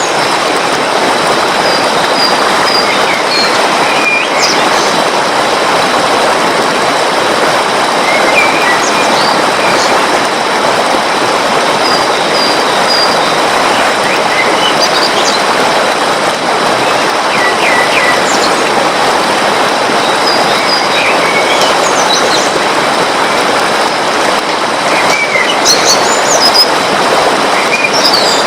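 Steady rush of flowing water, with small birds chirping and trilling in short high calls every second or two over it.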